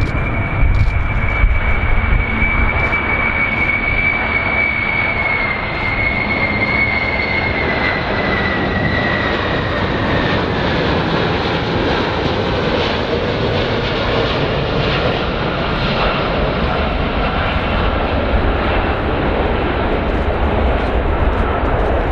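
Jet airliner engines running with a steady roar and a high whine that slowly falls in pitch over about ten seconds.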